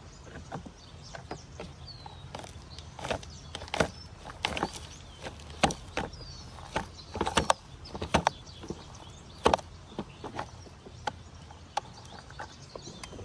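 Plastic toy garbage truck and its bins being handled: irregular sharp clicks and clacks, some in quick clusters, over a steady low hum.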